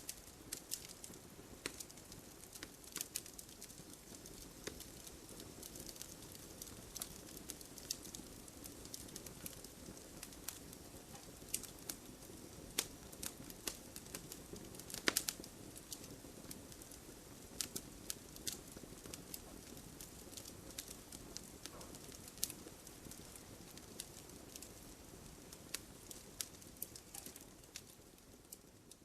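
Wood fire in a fireplace crackling: irregular sharp pops and snaps over a soft, steady hiss of the flames, with one louder pop about halfway through.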